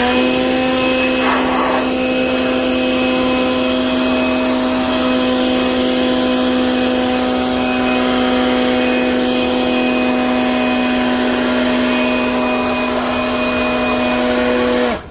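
Cordless leaf blower spinning up, then running at a steady speed with a loud, even whine and rush of air while blowing water off a freshly washed car. It shuts off just before the end.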